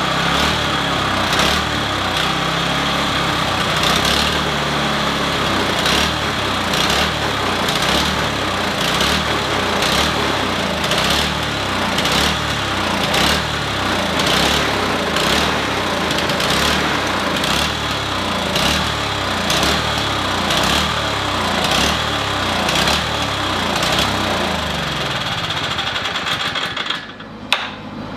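Toro snow blower's small engine running after its carburetor was cleaned of a plugged main jet, its pitch rising and falling repeatedly as it hunts. The sound drops away sharply with a single knock near the end.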